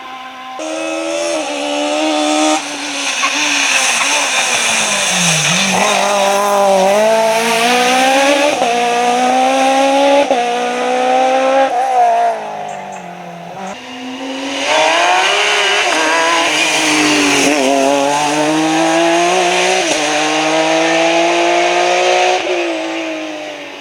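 Rally car engine at full throttle, the note climbing and snapping down through a series of quick gear changes. About halfway through it drops away briefly on a lift-off, then pulls hard again through the gears.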